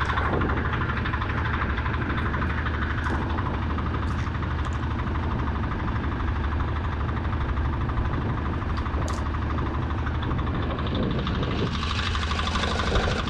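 Fishing boat's engine running steadily, driving the winch that hauls in the nets, a constant low hum with a few faint ticks over it.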